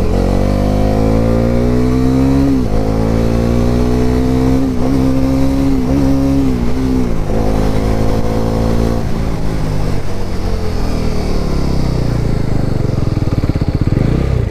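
Bajaj Pulsar NS400Z's 373 cc single-cylinder engine accelerating hard through the gears. The pitch drops sharply at two upshifts early on and climbs again after each, holds high, then falls steadily from about nine seconds in as the bike brakes hard from high speed with both brakes and ABS.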